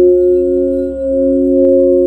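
Crystal alchemy singing bowls ringing together in several sustained, overlapping tones, the sound swelling and dipping briefly about a second in.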